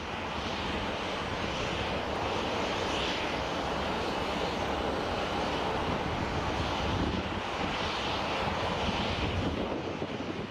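Boeing 737-800 jet engines running steadily: a constant, even jet rush with no rise or fall in pitch.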